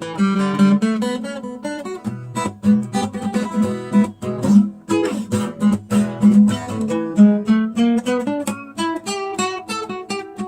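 Acoustic guitar music, plucked and strummed notes at a lively pace.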